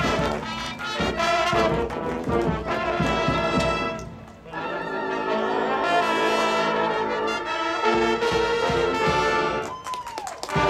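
Marching band's brass section playing loud held chords, with sharp percussion hits in the first couple of seconds and a brief break about four seconds in before the full chords return.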